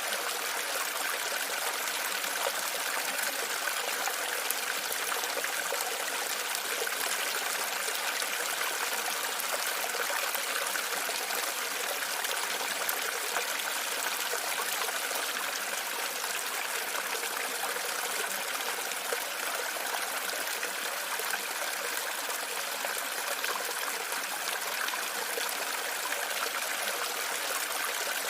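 Water running steadily, a continuous trickling stream with no breaks.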